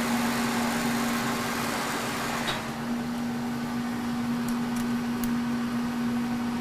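Kearney & Trecker 2HL milling machine, set up as a lathe, running with a steady hum as the tool is hand fed through the last of a turning cut. About two and a half seconds in there is a click and the cutting noise falls away, leaving the machine running, with a few faint ticks later on.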